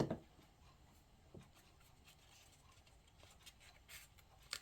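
Faint rustling and light taps of construction paper being handled and pressed onto a paper plate, with a sharper tap at the start and another near the end.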